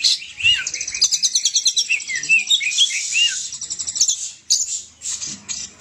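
Oriental magpie-robin (kacer) singing loudly and energetically: fast runs of high rapid trill notes mixed with short down-slurred whistles. Around four seconds in, the song breaks into shorter phrases with brief pauses.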